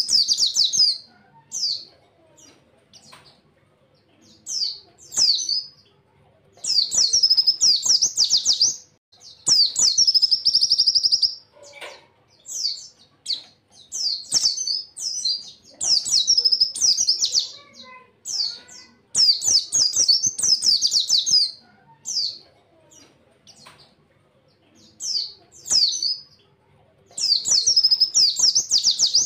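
A pleci (white-eye) singing in repeated rapid bursts of fast, high-pitched trilled notes, each burst a second or two long, separated by short pauses.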